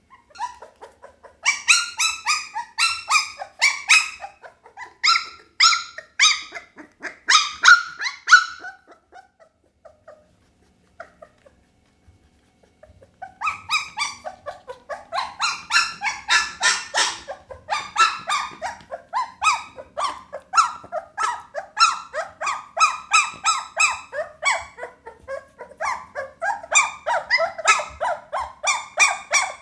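Pit bull puppies yipping and squealing: rapid, high-pitched cries, several a second. They break off for a few seconds about a third of the way in, then start again thicker and without a break.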